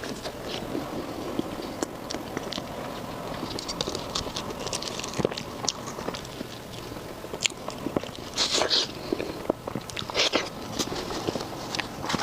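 Close-up chewing and biting of food, with wet mouth sounds and many short sharp clicks. It gets louder and crunchier about eight and ten seconds in.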